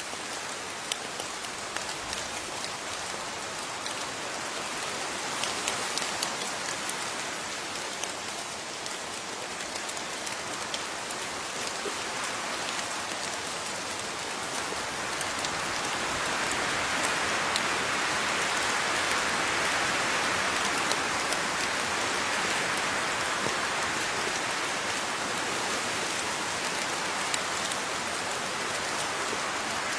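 Steady rain with individual drops pattering onto a surface, swelling a little louder partway through.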